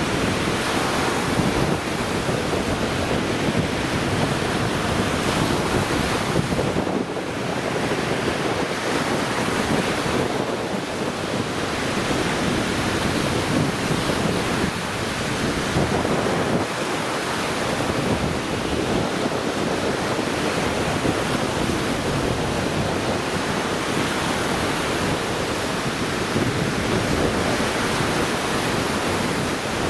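Lake Michigan waves washing onto the shore in a continuous surf, with wind buffeting the microphone.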